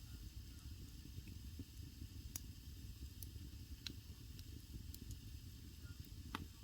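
Wood fire burning in a traditional Korean agungi firebox: a low steady rumble with a faint hiss, and scattered sharp crackles and pops of burning wood, the sharpest near the end.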